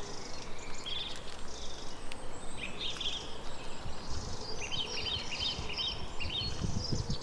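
Outdoor nature ambience: several birds chirping and calling, with a quick series of about five repeated notes midway, over a steady hiss. Low rumbles come and go in the second half.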